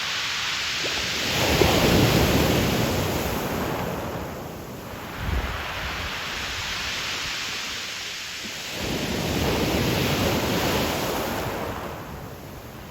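Ocean surf breaking and washing on a pebble shore. Two waves swell up and fade, one about a second and a half in and another just past the middle, with a deep rumble under each.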